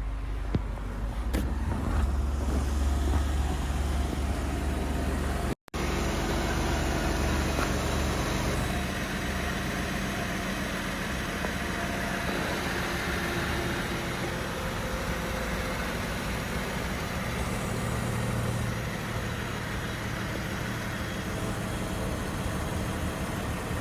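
2018 Jeep Wrangler JK engine idling after a cold start, a little louder for the first eight seconds or so, then settling to a steady idle.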